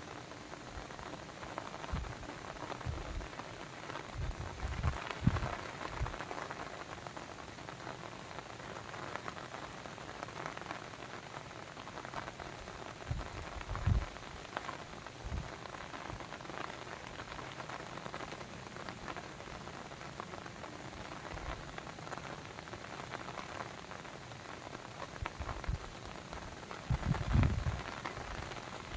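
Steady hiss of falling or running water, thick with small drop-like ticks, with a few short low thumps about five seconds in, around fourteen seconds in and near the end.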